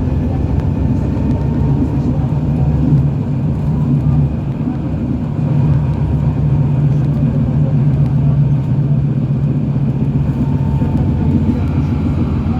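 KTM-23 (71-623-04.01) tram running along the rails, heard from inside the car: a steady low rumble of wheels and running gear, with a faint electric whine from the traction drive.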